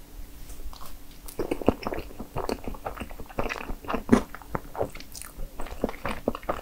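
Close-miked chewing of strawberry crepe cake: a run of short, irregular mouth clicks and smacks, busier and louder from about a second and a half in.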